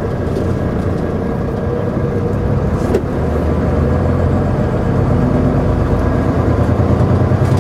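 Semi-truck engine and road noise, a steady hum that grows a little louder and fuller after about three seconds, with a single sharp click at about that point.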